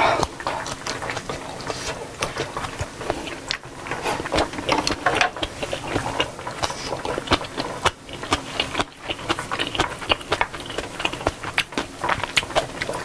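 Close-miked chewing of a mouthful of spicy stew and kimchi: a continuous run of wet smacks and quick mouth clicks.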